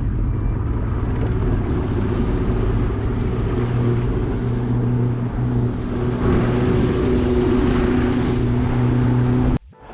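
A boat's outboard motor running at a steady pitch as the boat motors along, with wind and water noise over it. It cuts off abruptly near the end.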